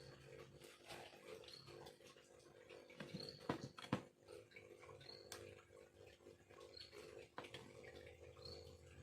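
Faint clicks and scrapes of a hand knife carving bamboo, scattered and irregular, over a steady low hum.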